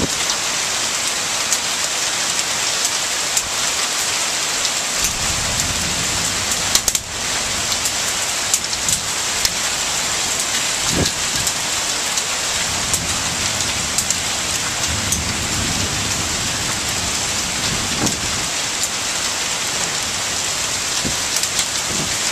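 Heavy rain pouring steadily, a dense even hiss with frequent sharp ticks of drops striking close by. Low rumbles come and go twice beneath it.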